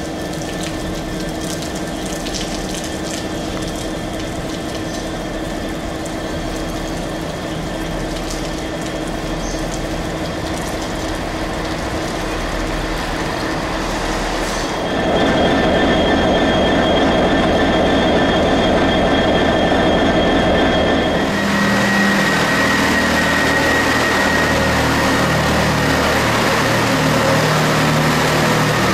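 Class 158 diesel multiple unit drawing into the platform. About halfway through it suddenly gets louder as the train comes close, with a high squeal. In the last few seconds the low drone of its diesel engines comes through as it slows alongside.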